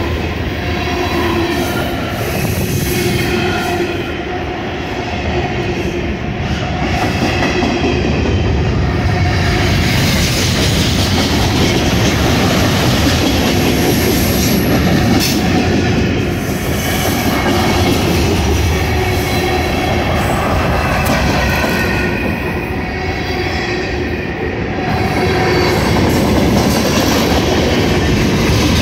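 Freight train flatcars loaded with containers rolling past close by, the steel wheels rumbling and clacking on the rails. Wavering high squealing tones from the wheels come and go through it.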